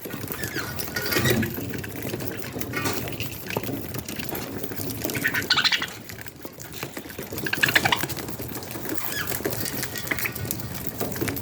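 Baby budgies eating wet soft food, with squelchy gulping and raspy squeaking begging calls that come in short bursts every second or two.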